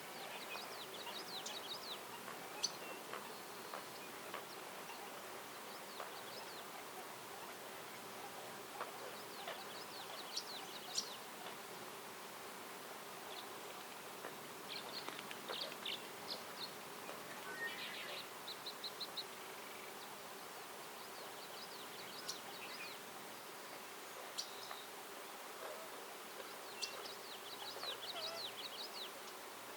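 Songbirds singing short, quick trilled phrases again and again, a few seconds apart, over a steady background hum and hiss of the woods.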